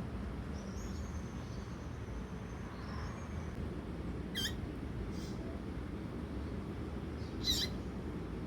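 Female double-collared seedeater (coleiro) giving short, sharp call notes: two clear ones about halfway through and near the end, with fainter calls between, over a steady low background hum.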